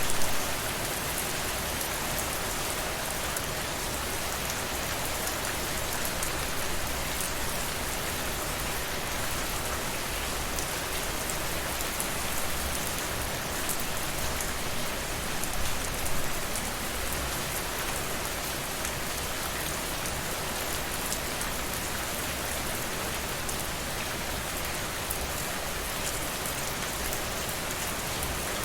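Steady rainfall, many fine drop hits pattering continuously, with a slightly louder spatter at the very start and another about two-thirds of the way through.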